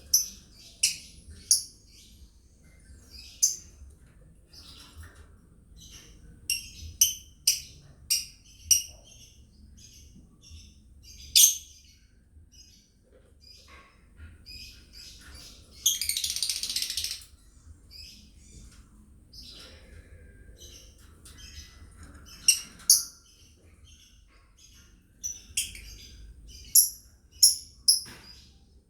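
Lovebirds chirping in short, sharp, high calls, irregularly spaced and at varying loudness. A harsh, noisy burst lasting about a second comes midway.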